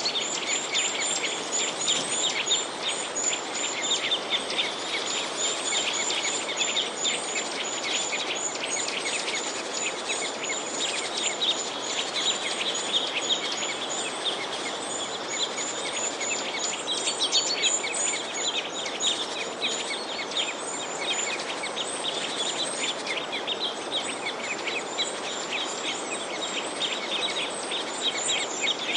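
Many small birds chirping at once, a dense chorus of short overlapping chirps and rapid repeated high notes, over a steady background hiss.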